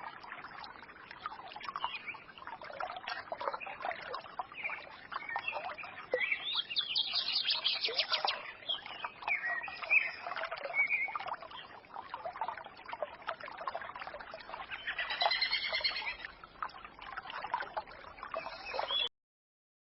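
Small songbirds chirping and twittering over a trickling forest stream, with a quick run of repeated chirps a little past the middle. The sound cuts off suddenly near the end.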